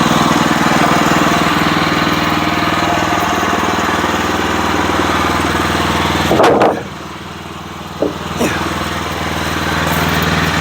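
Sawmill engine running steadily. About six and a half seconds in there is a brief louder burst, then the sound drops quieter for about two seconds with a couple of light knocks before it rises back to its steady level.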